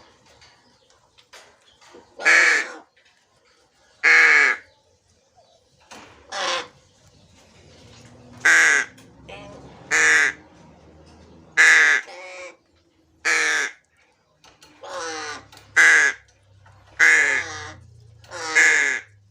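A black crow cawing repeatedly: about a dozen harsh single caws, each under half a second, spaced a second or two apart.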